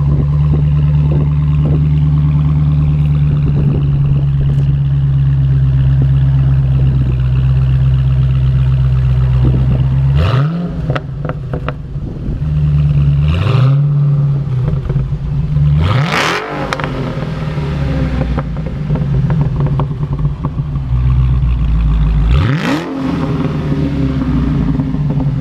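Exhaust of a Dodge Challenger SRT Hellcat's supercharged 6.2-litre HEMI V8, running steadily and then revved hard four times, each rev rising sharply in pitch before dropping back.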